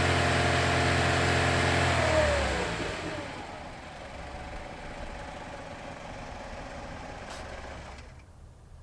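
A motor running steadily with a low hum, then winding down in pitch and stopping a little over two seconds in; a fainter hiss follows.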